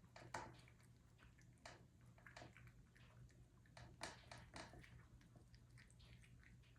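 A cat chewing food, faint irregular crunching and clicking bites.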